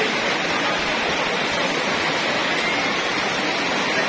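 Heavy downpour in strong wind: a loud, steady, even rush of rain with no distinct knocks or crashes.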